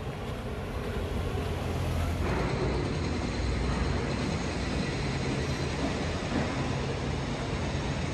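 A steady engine hum under rushing wind-like noise, growing louder about two seconds in.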